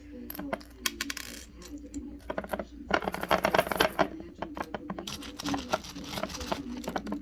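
Salt and small hard bits poured into a jar, making quick runs of clicking and rattling that come in two heavier bursts, about three seconds in and again near the end.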